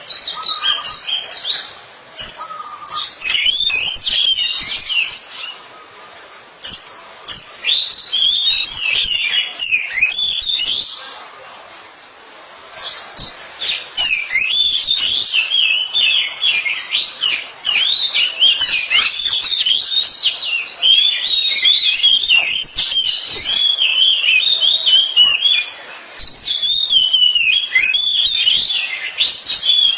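Oriental magpie-robins singing: a fast, varied run of whistled and chirping notes, broken by a few short pauses, the longest near the middle.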